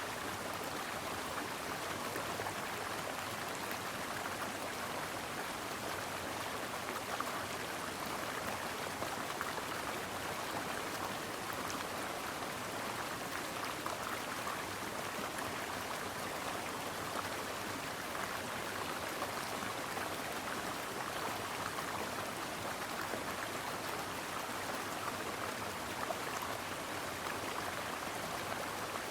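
Mountain stream water running steadily over rocks, an even rush of flowing water.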